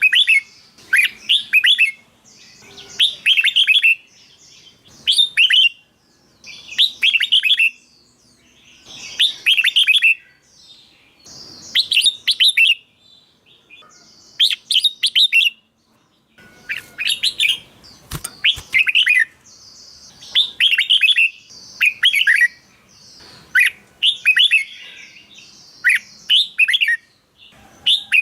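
Red-whiskered bulbul singing: short, loud, warbling whistled phrases repeated every second or two, with fainter higher chatter between them.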